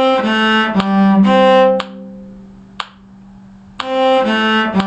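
A bowed string instrument playing a short four-note phrase, C, A, G, C, then starting the same phrase again near the end.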